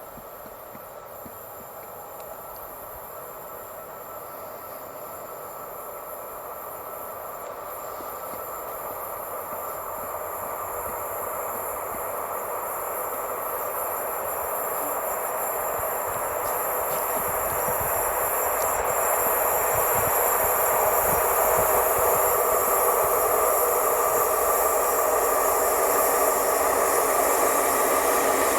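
A train approaching along the line, its running noise growing steadily louder for about twenty seconds, then staying loud as it draws level.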